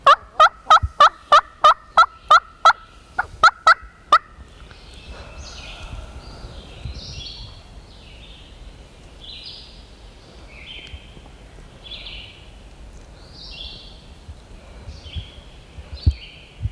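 Turkey yelping loud and close: about nine sharp, evenly spaced notes, a short pause, then three more. After that a songbird keeps singing short, high repeated phrases.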